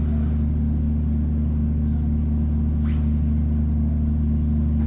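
A steady low mechanical hum of a few fixed pitches, unchanging throughout.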